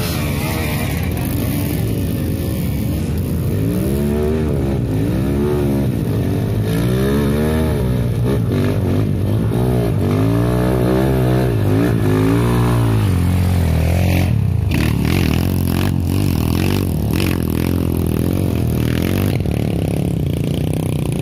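Trail motorcycle engine revving up and down again and again, about once a second, with a clatter of knocks about two-thirds of the way in, then running more steadily.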